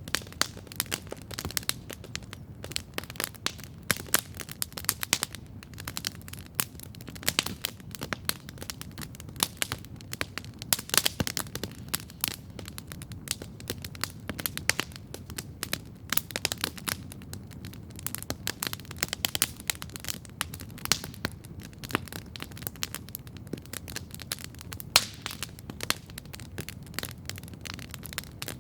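Wood campfire crackling steadily, dense irregular pops and snaps over a low steady rumble of the flames.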